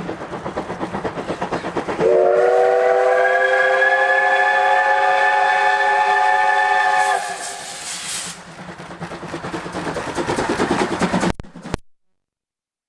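C12 steam locomotive working a train: rhythmic exhaust beats, then its steam whistle sounds one long blast of about five seconds in a chord of several tones. The exhaust beats carry on and grow louder before the sound cuts off suddenly near the end.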